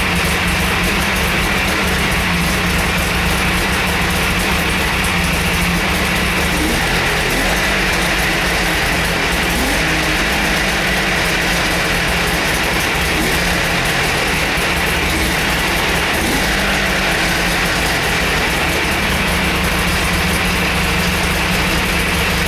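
1997 Polaris Indy XLT 600 snowmobile's two-stroke engine running at a steady idle just after a cold start.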